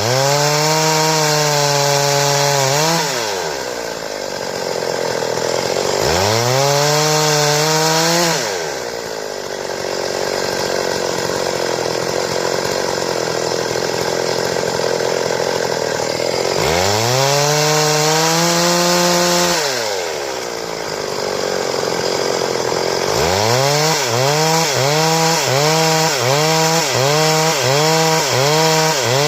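Stihl two-stroke chainsaw cutting wood into boards: the engine screams at high revs between cuts, then bogs down to a lower, rougher sound as the chain bites, three times over. Near the end the pitch dips and recovers in quick regular pulses, about one a second.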